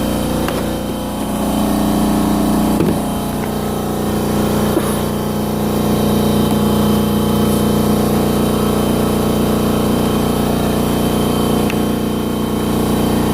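Husky 30-gallon electric air compressor running steadily, its motor and pump filling the tank with an even hum.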